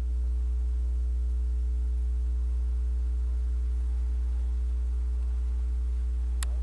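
Steady low electrical hum with fainter higher tones above it, holding at an even level; a single sharp click near the end.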